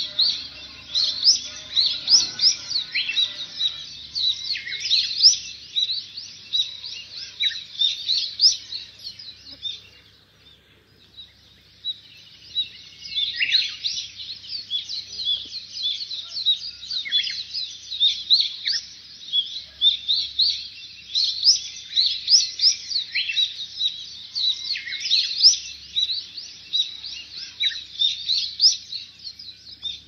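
Birds chirping and twittering in quick, overlapping high calls, with a short lull about ten seconds in.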